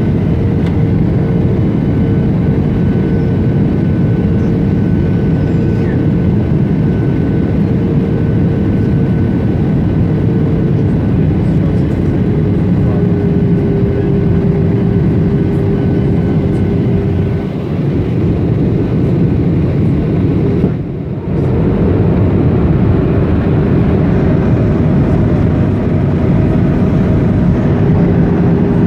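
Boeing 737-800's CFM56 jet engines and airflow heard inside the cabin in flight: a steady loud roar with a steady whine. The whine drops slightly in pitch about twelve seconds in, as the engines throttle back, and rises again near the end.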